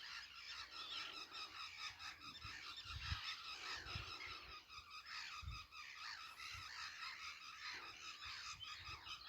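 Faint, continuous chatter of distant wetland birds calling. A few low thumps come through about three to five seconds in.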